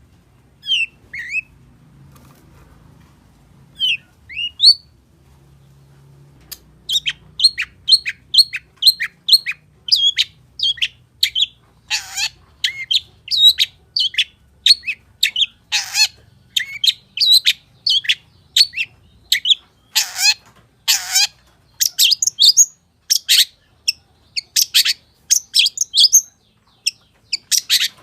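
Long-tailed shrike singing: a few short rising chirps at first, then from about six seconds in a fast, continuous run of short high notes, broken now and then by harsh, scratchy notes.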